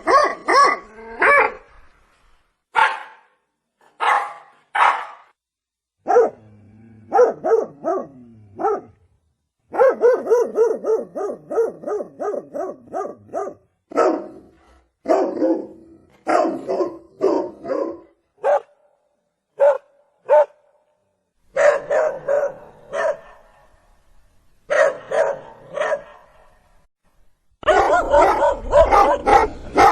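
Dog barking repeatedly in irregular bursts of short barks with brief pauses between them. There is a quick run of barks about ten seconds in and a denser run near the end.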